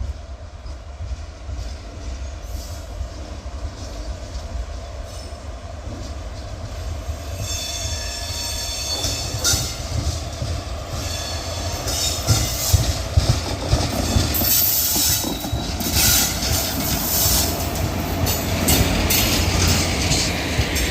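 Train passing close on the track, growing louder throughout: a low rumble, then from about a third of the way in, wheels squealing against the rails and a quickening clatter of wheels over rail joints.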